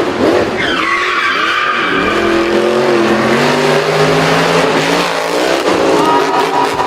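Monster truck engines revving, with tyres skidding; the engine pitch glides up and down.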